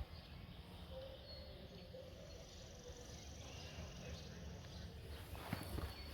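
Quiet outdoor ambience: a low rumble of wind on the microphone with a faint high insect trill in the middle, and a few light footstep-like knocks near the end.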